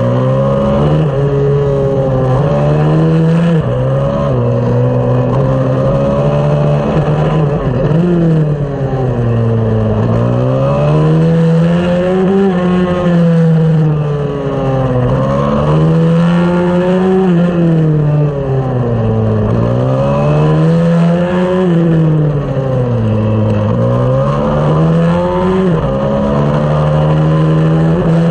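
A 140cc racing pit bike's single-cylinder four-stroke engine running hard under race conditions. The revs climb and fall over and over, with quick drops at gear changes and longer falls into corners.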